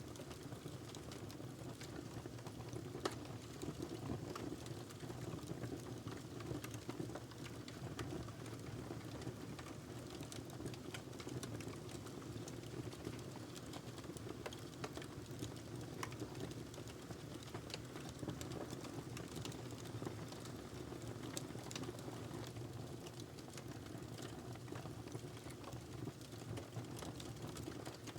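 Wood fire burning in a fireplace, crackling with frequent small pops and snaps over a steady low rush of flame.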